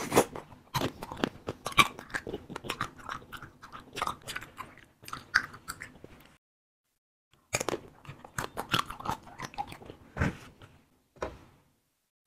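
Close-miked biting and chewing of a wax candy with a fruit-syrup filling: many small wet clicks and crunches. The chewing breaks off into silence for about a second midway, then goes on.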